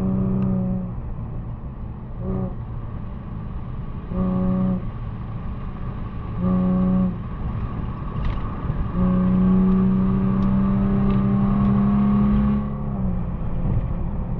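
Straight-piped Infiniti G37's VQ37VHR V6 exhaust, with muffler and resonators deleted, heard from inside the car while driving. A steady, flat drone comes and goes several times, the longest lasting about four seconds near the end.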